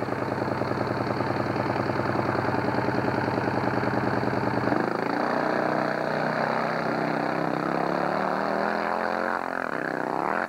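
Fuel drag motorcycle's engine running at the start line with a rapid, even pulsing. About five seconds in its note jumps and climbs as the bike launches and pulls away down the strip.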